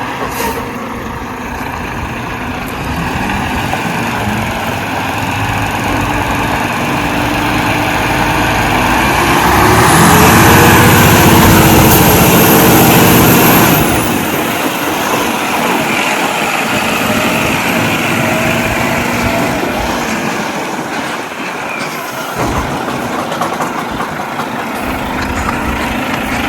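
Garbage truck's diesel engine running, revving up about ten seconds in and holding high for about four seconds with a thin high whine over it, then dropping back to a steady lower run.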